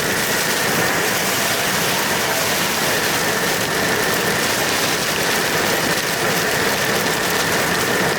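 Steady engine and road noise heard inside a moving car's cabin at highway speed, with no changes.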